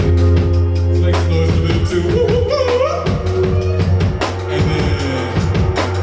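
Live band music: a drum kit playing a steady beat over a loud, sustained bass note, with a melody line that slides upward about two seconds in.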